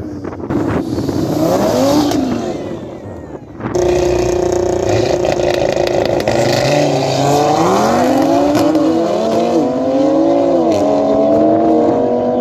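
Audi RS3 sedan's turbocharged five-cylinder held at high revs on the start line, then launching and accelerating hard, its pitch climbing and dropping at each of three gear shifts. Before it, another race car's engine fades away down the strip.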